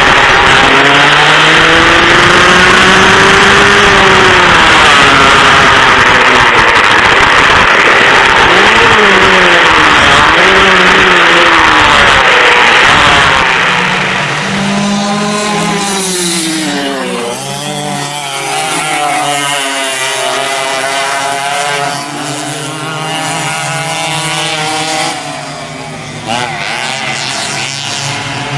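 Vintage dual rear-engine racing karts' two-stroke engines running at high revs, their pitch repeatedly rising and falling as they accelerate and lift off for corners. It is very loud at first. About halfway through it drops to a lower level, with several engine notes overlapping.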